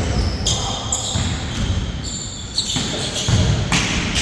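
Basketball bouncing on an indoor court during play, with short high-pitched sneaker squeaks on the floor and heavier thuds about three seconds in, in an echoing hall.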